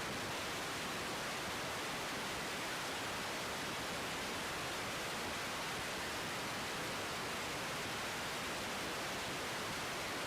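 Steady, even hiss of an air traffic control radio feed between transmissions.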